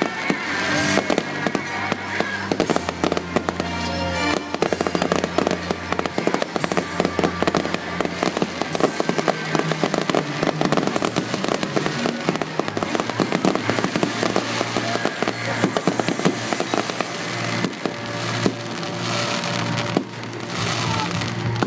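Fireworks display with dense, continuous crackling and popping and repeated bangs over loud music played for the show.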